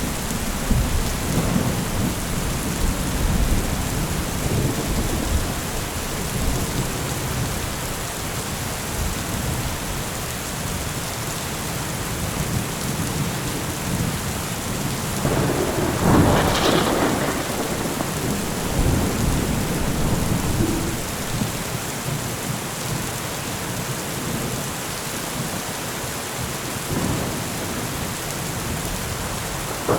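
Steady rain with thunder rumbling low, and a louder thunderclap about halfway through.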